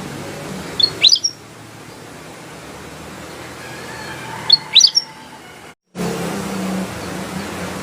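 Kutilang emas (ruby-throated bulbul) calling in two short bursts, about a second in and again about halfway through. Each burst is a few sharp, high notes that sweep quickly up and down, over a steady low hum.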